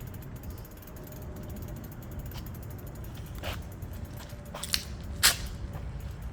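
Rapid, even mechanical ticking like a ratchet or freewheel, over a low rumble, with a few sharper clicks about three and a half and five seconds in, the last the loudest.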